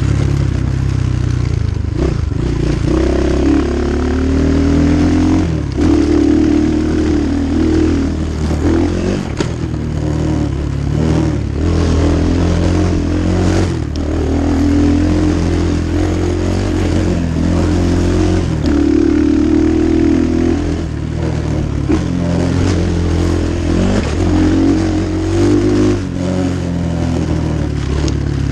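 Templar 250cc Chinese dirt bike's single-cylinder engine revving up and down under hard trail riding, its pitch stepping with throttle and gear changes. Occasional knocks and clatter from the bike over bumps.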